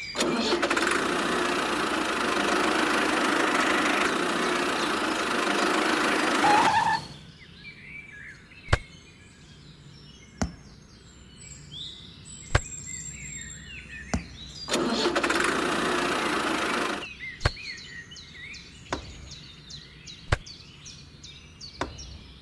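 Toy tractor engine sound running steadily for about seven seconds, then again for about two seconds around fifteen seconds in. Between and after the engine, a few sharp single knocks of small stones being set down, with faint birdsong behind.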